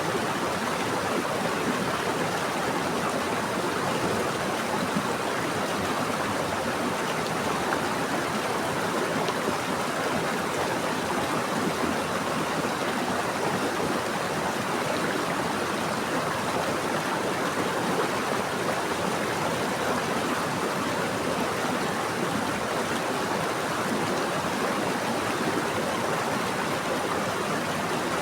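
Running water of a stream or river, a steady rushing and burbling with no breaks.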